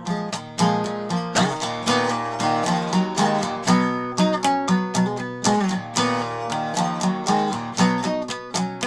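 Acoustic guitar-type string instrument strummed in a steady chord rhythm, about two strokes a second, as an instrumental passage of a folk song with no singing.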